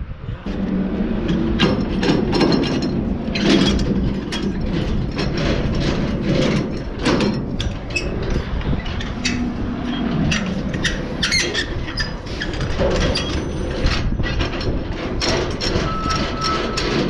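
Semi truck engine running while the tractor and its chassis rattle and clank, with frequent sharp knocks and squeaks from the rig. A thin high tone comes in near the end.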